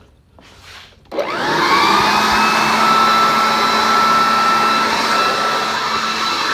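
Leaf blower switched on about a second in, its whine rising as the motor spins up, then running steadily at full speed.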